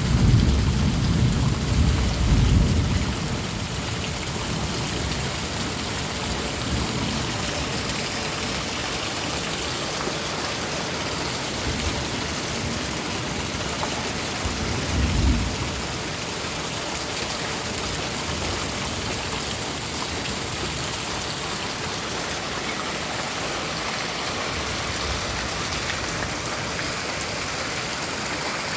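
Steady heavy rain hissing, with thunder rumbling over the first three seconds and a shorter roll of thunder about fifteen seconds in.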